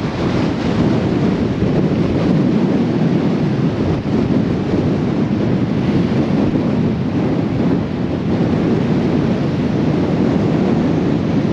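Storm-force wind buffeting the microphone: a loud, steady rushing rumble with no let-up.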